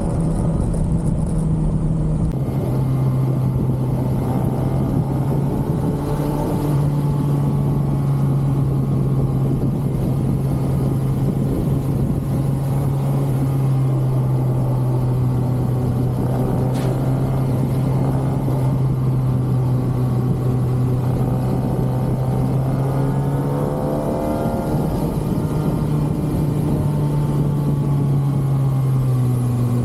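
2023 Kawasaki ZX-6R inline-four engine on its stock exhaust, running steadily under way. Its pitch stays fairly even, stepping slightly up or down a few times, over a constant rush of noise.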